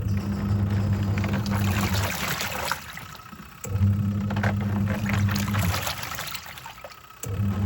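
Twin-tub washing machine's wash tub agitating: the pulsator motor hums for about two seconds, pauses for about a second and a half, then starts again, three runs in all, with water sloshing throughout.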